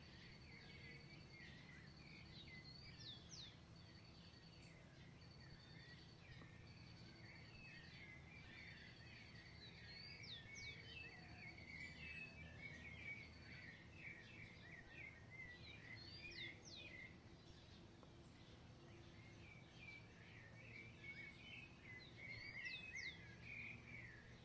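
Several birds chirping and singing faintly, with a clear rising whistle repeating about every six or seven seconds and a high, evenly pulsed trill running through the first half.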